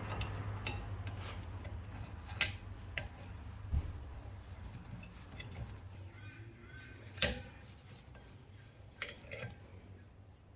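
Metal tools clinking against a brake caliper while the piston is pushed back with a piston retracting tool: five or so separate sharp clinks, the loudest about seven seconds in, over a low steady hum.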